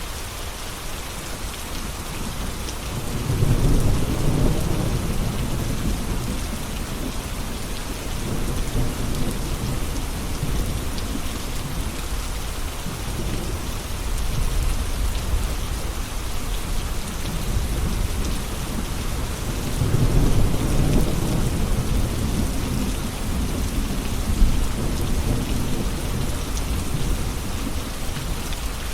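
Steady heavy rain falling, with low rolling rumbles of thunder that swell twice, about three seconds in and again about twenty seconds in.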